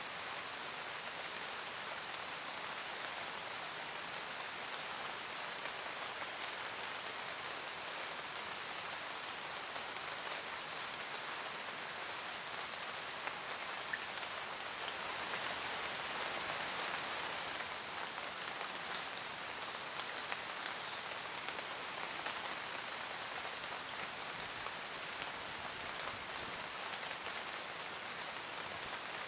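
Steady rain falling in a forest, a dense patter of raindrops on leaves with scattered individual drips, swelling slightly about halfway through.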